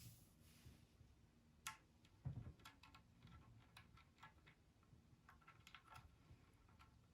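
Near silence with faint scattered clicks and light taps, and a soft knock a little over two seconds in.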